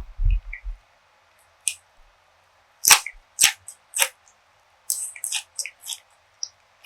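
Close-miked eating sounds: a few soft low thumps at the start, then sharp crisp crackles and crunches of chewing, loudest about three seconds in and again in a quick cluster near the end.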